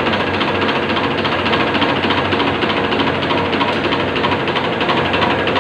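A CAV rotary diesel fuel-injection pump being run during calibration. It gives a steady mechanical running sound with a dense, rapid, even ticking over a low hum.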